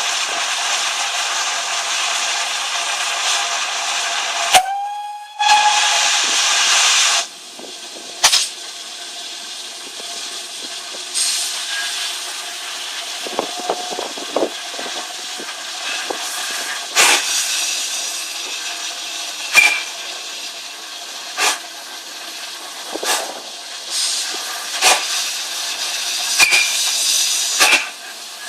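Steam locomotive hissing steadily, then a short whistle blast that rises slightly in pitch about four and a half seconds in, followed straight away by a loud burst of steam hiss. After that the hiss drops lower, with scattered clicks and knocks.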